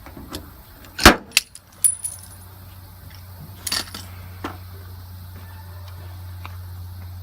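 Slide hammer pulling a glued PDR tab on a truck bedside dent: the sliding weight strikes its stop with a loud metallic clack about a second in, followed by a few quick clicks and rattles with a metallic ring, then two lighter knocks a couple of seconds later. A steady low hum sets in about two seconds in.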